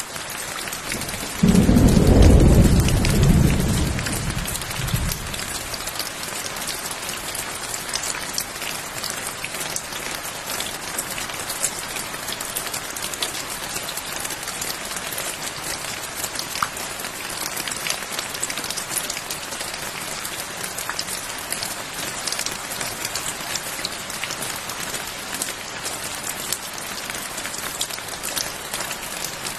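Steady rain falling, a dense patter of drops. About a second and a half in, a thunderclap breaks in as a loud, deep rumble that fades away over three or four seconds while the rain carries on.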